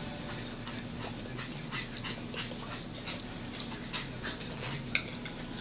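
Close-up chewing of raw celery and cheese: a run of irregular crisp crunches, with one sharper crunch near the end.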